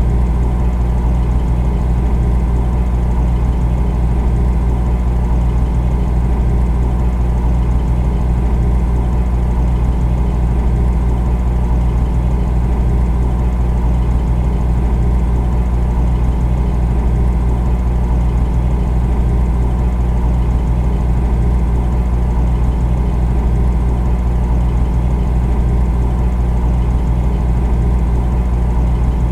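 Refrigerator running: a steady, deep mechanical hum, most of it in the bass.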